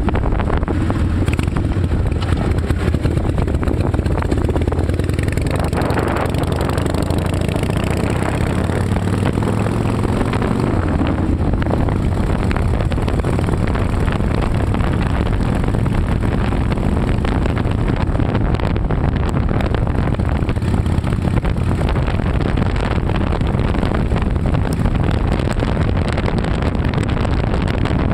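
Harley-Davidson Night Train's V-twin engine running steadily through new baffled turnout drag pipes, with a few small shifts in engine speed in the first half.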